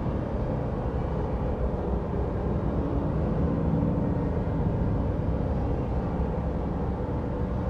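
Steady low rumble with a faint hum and no sudden events, like a running vehicle or machinery.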